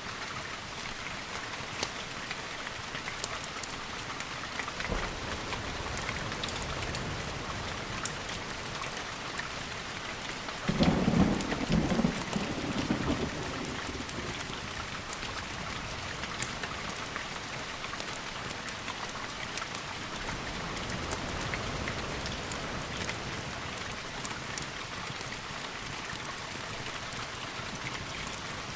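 Steady rain falling, with a short clap and rumble of thunder about eleven seconds in that lasts around two seconds.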